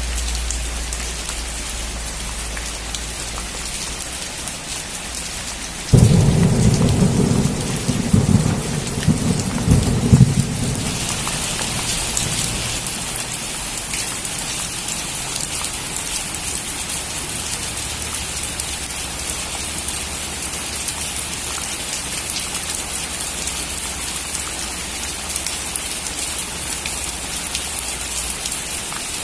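Steady rain with a sudden thunderclap about six seconds in, crackling and rumbling for about four seconds. After the thunder the rain grows louder and hissier.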